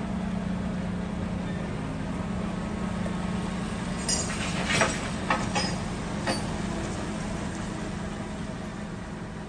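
An engine running steadily, with a handful of sharp metallic clanks about halfway through.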